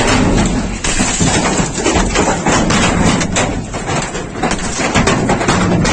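Large hailstones pelting down hard: a dense, irregular clatter of sharp impacts over a steady rush of falling ice.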